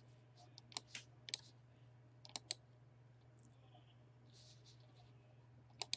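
Scattered sharp clicks of a computer mouse, several in quick succession in the first half and one more near the end, over a faint steady low hum.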